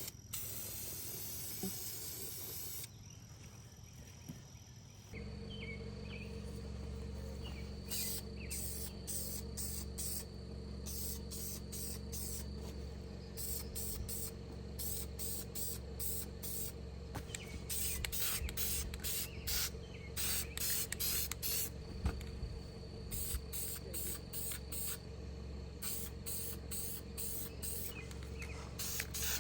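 Hissing spray for the first few seconds, then many short hissing bursts over a steady low hum.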